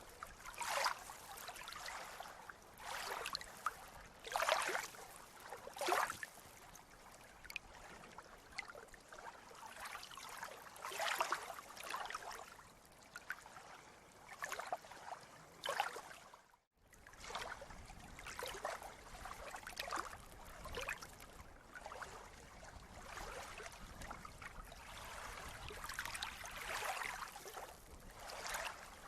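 Sea water lapping and splashing in small, irregular surges every second or two. There is a brief dropout about two-thirds of the way through.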